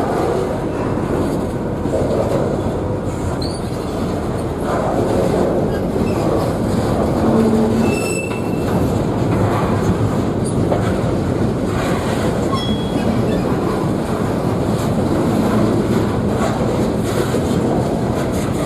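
Freight train cars rolling past with steady wheel-on-rail rumble and a few brief wheel squeals.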